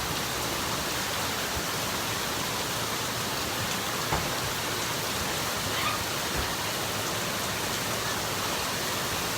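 Heavy rain pouring down steadily, a dense even hiss of falling water, with one small knock about four seconds in.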